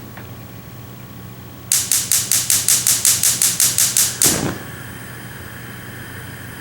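A rapid, even run of sharp clicks, about six a second, lasting some two and a half seconds and stopping abruptly.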